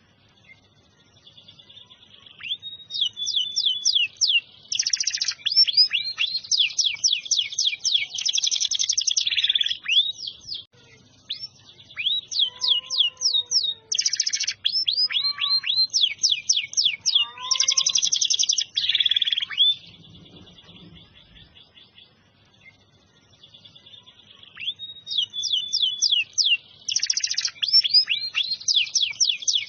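Domestic canary singing: long, rapid trilled phrases and rolling chatters, with a pause of a few seconds about two-thirds of the way through before the song starts again.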